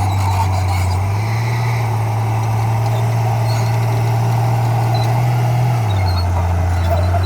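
Heavy diesel engine of earthmoving equipment running steadily. Its low hum rises about a second in and falls back near six seconds, as the engine takes on and sheds load.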